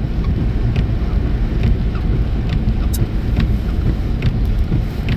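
Car driving on a snowy highway, heard from inside the cabin: a steady low rumble of road and tyre noise with scattered light ticks.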